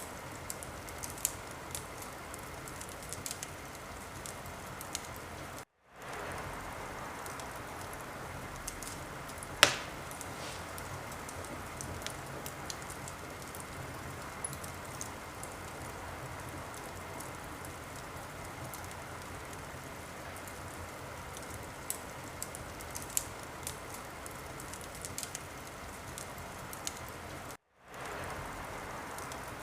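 Wood fire in a fireplace crackling: a steady hiss with scattered small pops and one loud sharp pop about ten seconds in. The sound cuts out completely for a moment twice.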